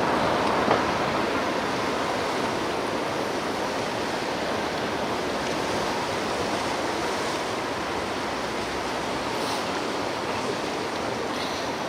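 Ocean surf: a steady rush of waves breaking and washing on the shore, easing slowly over several seconds.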